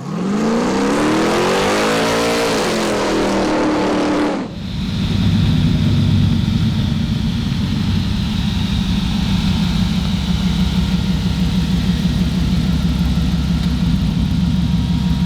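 An engine revs up and back down, holds, and cuts off abruptly about four and a half seconds in. A steady, lumpy idle of a V8 follows, most likely the truck's LS3, and runs on.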